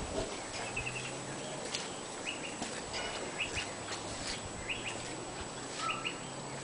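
Small birds chirping: short, high chirps in quick pairs or threes, about once a second, over a low steady hum.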